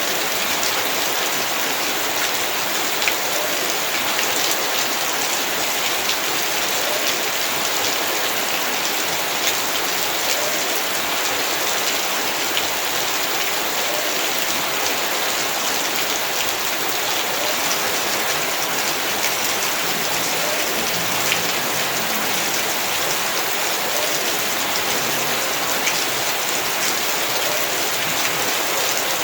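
Heavy rain falling steadily in a yard, an even hiss of rain with scattered sharper drop impacts.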